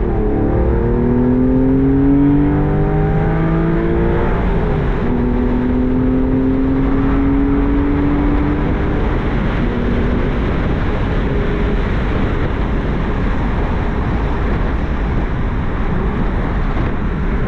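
2005 Porsche 911 Carrera 4S (996) naturally aspirated 3.6-litre flat-six with the factory sport exhaust, heard from inside the car, accelerating twice through the gears of its six-speed manual, its pitch rising and then dropping at each upshift. After about ten seconds it settles into steady cruising with road noise.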